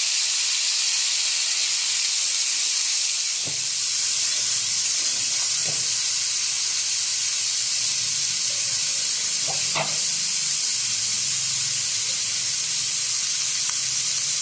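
Steamed, drained broccoli florets sizzling in hot oil in a metal kadai: a steady, loud hiss, with a few light knocks about three and a half, six and ten seconds in.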